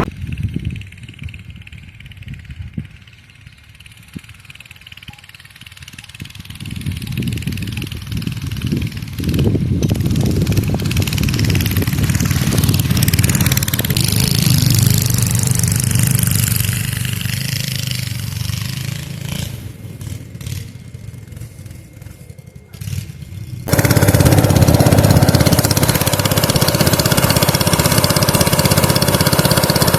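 A small vehicle engine running and revving, rising and falling as the vehicle is ridden. About three quarters of the way through it cuts abruptly to a louder, steadier engine sound.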